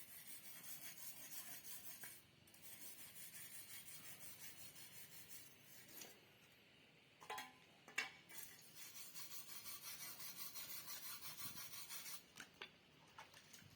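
Quiet, even rasping strokes, about three a second, of something being rubbed or sanded by hand. They come in three runs with short pauses, and there is a sharp click about eight seconds in.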